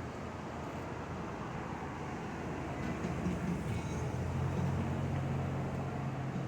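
A motor vehicle's engine hum swells in about three seconds in and holds over a steady background hiss, easing off near the end.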